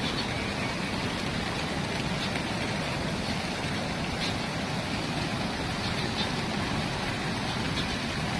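Floodwater rushing steadily, an even noise that holds without a break.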